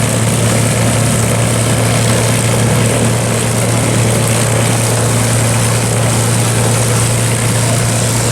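A P-51 Mustang's Merlin V-12 engine running steadily.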